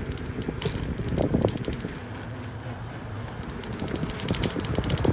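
A bicycle rattling and clicking as it rolls over a rough street, over a steady low rumble.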